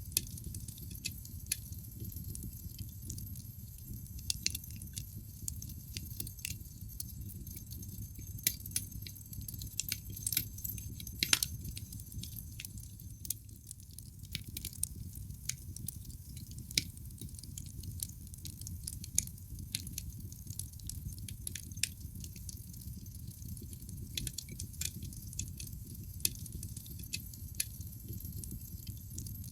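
Wood fire burning in a fireplace: irregular sharp crackles and pops of the burning logs over a low, steady rush of the flames, with one louder pop about eleven seconds in.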